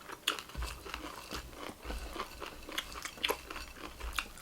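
Close-up chewing of a mouthful of dry beaten rice (chiura), with irregular crisp crunches several times a second.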